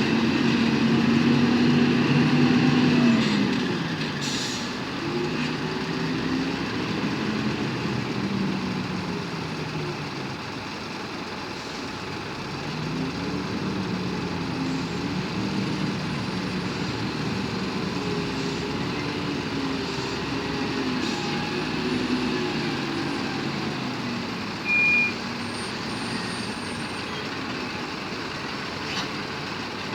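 Truck engine running, its pitch falling and rising several times as the revs change, with one short high beep about 25 seconds in.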